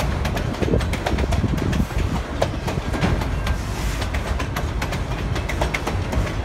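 Freight train of autorack cars rolling past: a steady rumble of steel wheels on rail, with frequent sharp clicks and clanks.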